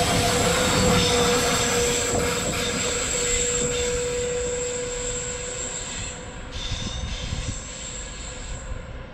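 Double-deck electric passenger train passing and pulling away, its rolling rumble fading steadily over several seconds. A steady high-pitched whine holds until near the end, with a lower steady tone under it for the first half, and a few clicks from the wheels as it rolls off into the distance.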